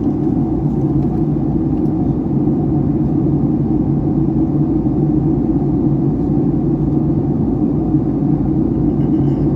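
Steady cabin rumble and hum inside a Boeing 757-300 airliner, with an even low drone.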